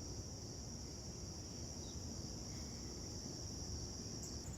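Insects calling in a steady, high-pitched chorus; near the end the pitch steps up slightly and turns pulsing.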